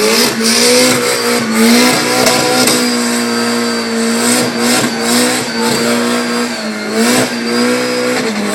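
Car engine held at high revs, its pitch wavering up and down, while the tyres spin and squeal in a burnout or drift.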